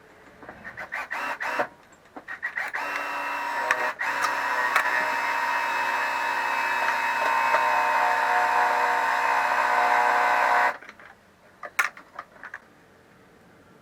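An electric drill runs steadily at a fixed pitch for about eight seconds, then stops abruptly. Before it starts there are short clicks and rattles of tools on metal.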